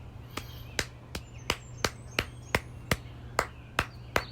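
Steady, evenly spaced clapping, about three sharp claps a second.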